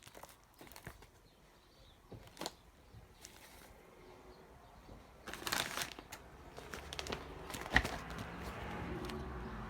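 Firework boxes being shifted and handled: scattered light taps and clicks, a rustling, scraping stretch about five and a half seconds in, and one sharp knock near the eighth second.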